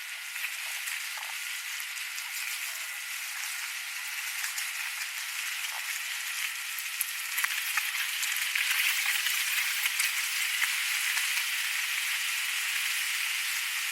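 Steady rushing hiss with scattered crackles and ticks, getting louder about eight seconds in: wind and wheel noise while riding an electric skateboard.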